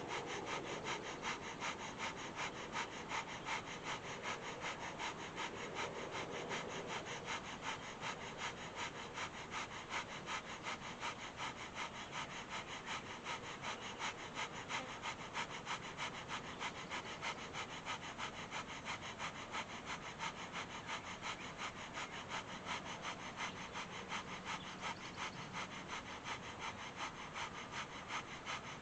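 Breath of fire: a person's rapid, even nasal breathing, pumped by the stomach, with equal inhales and exhales at about two to three breaths a second.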